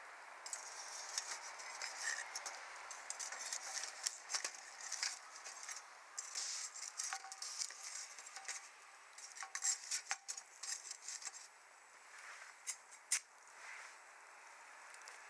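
Wood fire crackling in a steel fire pit: irregular sharp pops and snaps over a soft hiss, busiest in the middle, with one loud pop near the end.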